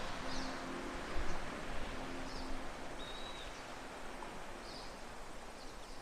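Outdoor nature ambience: a steady wash of noise with short, high bird chirps about once a second and a thin whistled note about three seconds in. Low sustained music notes fade out in the first few seconds.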